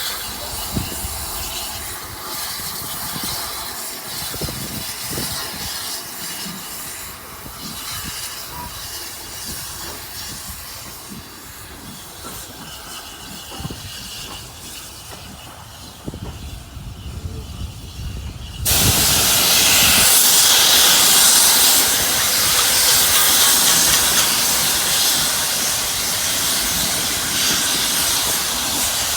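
Steam locomotive venting steam: after a quieter stretch with low rumbles, a loud, steady hiss of escaping steam starts suddenly about two-thirds of the way through and carries on.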